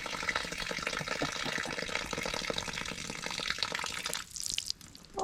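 Water pouring and splashing as it is emptied into a rain gutter to test its flow, stopping abruptly about four seconds in and leaving a few drips.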